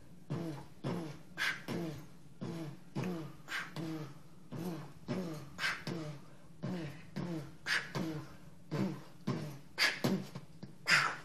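A person beatboxing a steady hip-hop beat: short, low, falling vocal kick sounds about twice a second, with a sharper hissing snare sound every couple of seconds.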